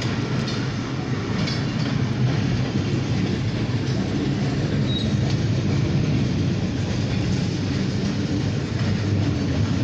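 Short freight train of grain hopper cars rolling past, a steady rumble of steel wheels on rail with faint clicks over the rail joints.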